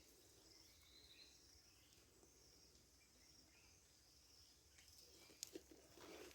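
Near silence: faint rural ambience of insects chirping steadily, with a few faint bird chirps and a couple of light clicks about five and a half seconds in.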